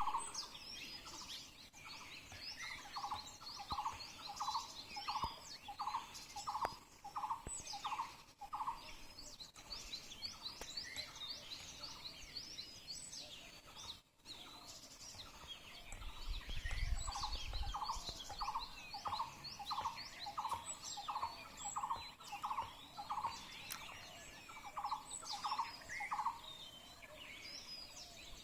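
A chorus of birds chirping and twittering, with many quick high chirps overlapping throughout. A lower call repeats about three times a second in two long runs, and a brief low rumble comes a little past halfway.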